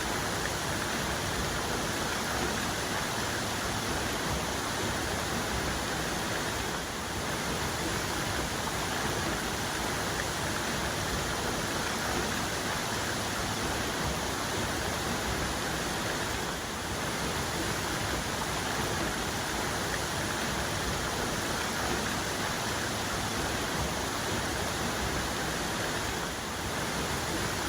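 Waterfall cascade: water falling and splashing in a steady, even rush that dips slightly now and then.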